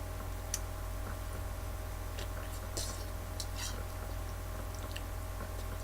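Someone chewing food, with scattered small clicks and soft wet mouth sounds, over a steady low electrical hum.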